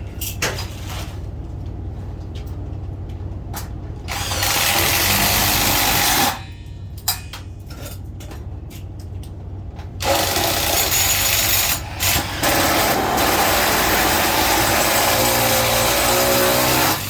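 Power drill/driver running in two long bursts, one of about two seconds and then a longer one of about seven seconds, likely driving self-drilling tek screws for the door hardware.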